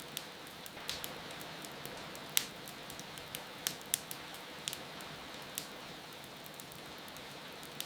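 Wood fire crackling, with irregular sharp pops, the loudest about two and a half seconds in, over a steady hiss of rain.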